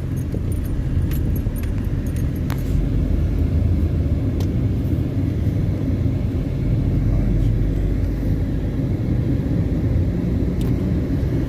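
Steady low rumble of a car driving on a highway, engine and tyre noise heard from inside the cabin, with a few faint clicks.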